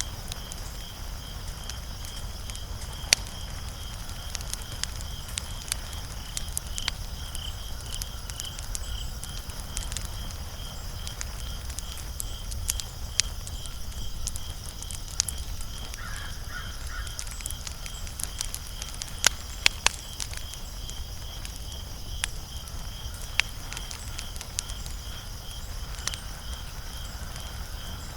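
Wood fire crackling, with irregular sharp pops over a low steady rumble. A faint high chirp pulses about twice a second in the background.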